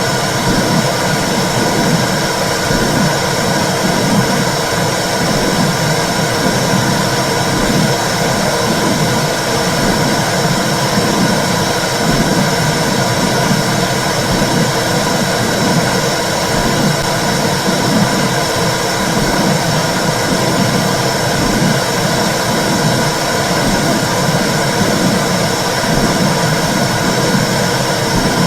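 Womb (uterine) sound for soothing babies: a loud, steady whooshing rumble with an even, rhythmic pulsing in its low part, like blood flow heard inside the uterus.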